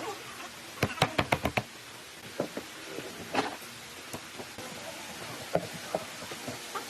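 Hand work on wood: a quick run of about six sharp knocks about a second in, then scattered lighter taps and clunks over a steady hiss.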